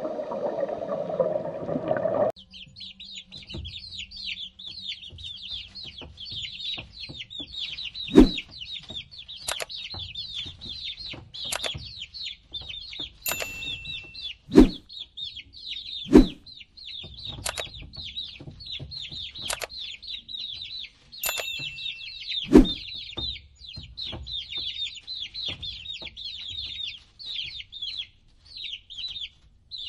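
Newly hatched chicks peeping rapidly and continuously in high chirps, starting after a short rushing noise cuts off about two seconds in. Several sharp loud clicks and two brief electronic chimes sound over the peeping.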